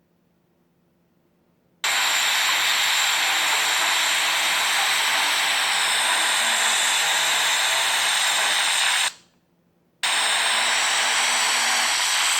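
Loud, steady static hiss from an iPhone 6 malfunctioning; it starts suddenly about two seconds in, cuts out for about a second near the end, then comes back.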